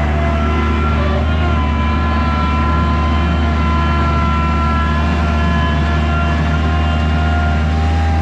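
Skid steer engine running steadily under work, with a whine whose pitch drifts slightly up and down.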